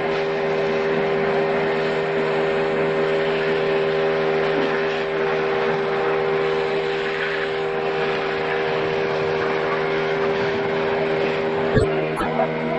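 An engine running steadily at constant speed, with a sharp knock near the end.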